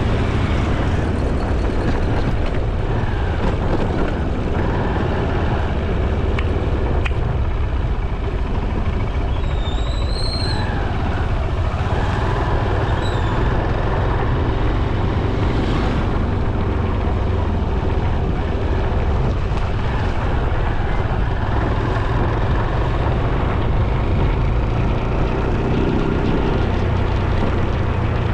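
Steady, loud wind and road noise of a motorcycle ride. A short high tone rises then falls about ten seconds in, and a fainter one follows about three seconds later.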